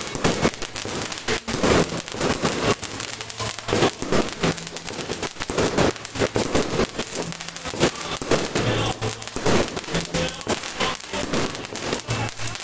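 Fireworks going off in dense, rapid succession: many overlapping bangs and crackles with no pause.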